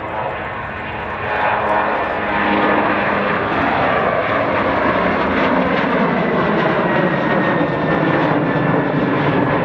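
Boeing 737-800's CFM56-7B turbofan engines at takeoff thrust, a loud jet roar that swells about a second in and then holds steady. Faint tones within the roar sink slowly in pitch.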